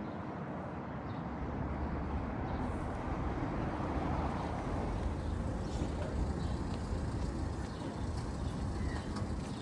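City street traffic: a steady low rumble of passing motor vehicles, growing a little louder in the middle as a vehicle goes by.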